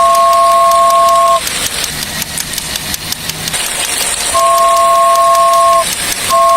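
A train horn sounding two notes together in long blasts. One blast cuts off about a second and a half in, another sounds for about a second and a half mid-way, and a third starts near the end. Quieter running noise fills the gaps.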